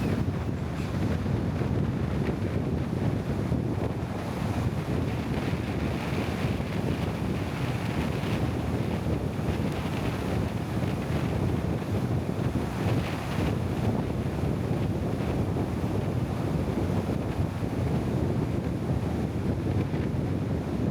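Steady wind noise on the microphone over a continuous low rumble, with no separate events.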